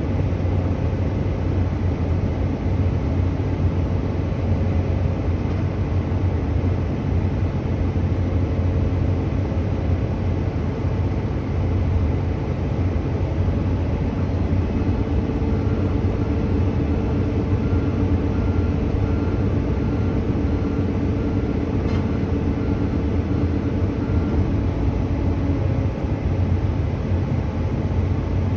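Diesel engine of heavy construction machinery running steadily with a low rumble, and a faint series of quick beeps in the middle.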